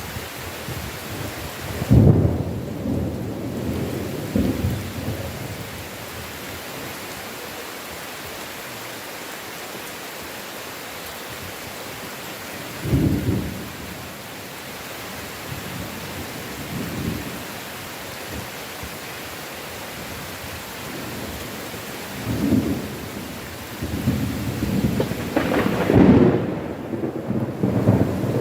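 Heavy rain falling steadily in a forest, with thunder rumbling several times. A long, loud roll of thunder builds near the end.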